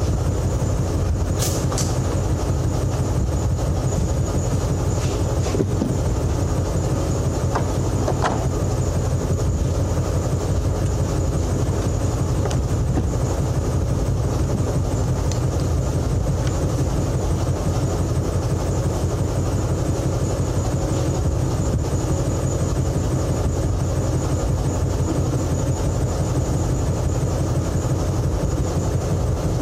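An engine running steadily, a constant low drone with rattling over it, holding the same speed and load throughout.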